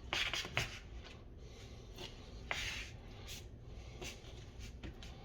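Knife cutting and scraping through a tilapia fillet to take out the pin bones and bloodline. It makes a few short scraping strokes, the loudest just after the start and about two and a half seconds in.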